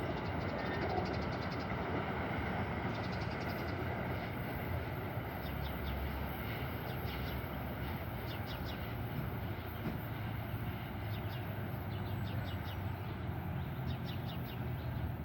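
Commuter train running through on the rails, a steady rumble of engine and wheel noise, which cuts off suddenly at the end.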